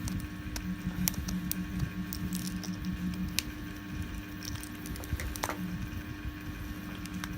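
Irregular small clicks and snaps of plastic 3D-print support material being cut and prised off a printed part with hand tools, over a steady low hum.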